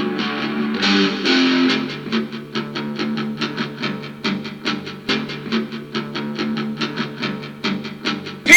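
Rock music without singing: an electric guitar strums a steady rhythm of about four strokes a second over sustained low notes.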